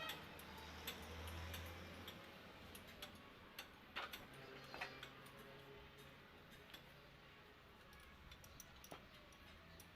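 Faint, irregular clicks and taps, a few sharper ones about four, five and nine seconds in, over a low hum.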